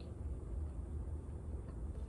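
A steady low rumble of background noise, with a few faint clicks from a person chewing and wiping her mouth between bites of chicken wing.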